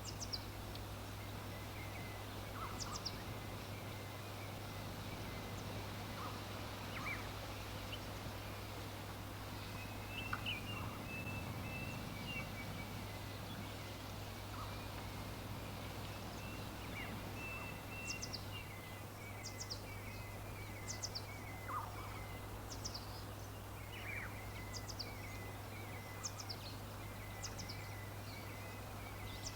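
Small songbirds chirping over a steady background hiss and low hum. Short, high chirps that fall in pitch repeat all through, more densely in the second half, with thinner warbling calls about ten seconds in and again from about sixteen seconds.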